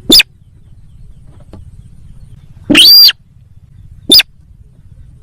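Lure-call recording of the sintar sawah bird: three loud calls, a short sharp one at the start, a longer arching call about three seconds in, and another short one a second later, over a low steady hum.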